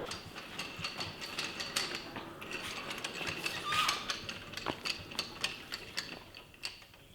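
Faint, irregular clicks and clinks of parts being handled and set down during shop work, spread out over several seconds.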